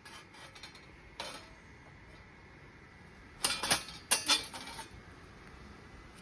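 Hard objects knocking and clattering together, like camp gear or cookware being handled: one light knock about a second in, then two short bursts of sharp clatter around the middle.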